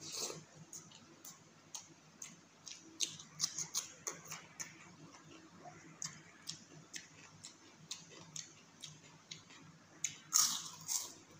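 Close-up eating sounds: wet, clicky chewing of a mouthful of rice and chicken curry, with many small mouth clicks. Near the end a louder crunch as a crisp fried papad is bitten.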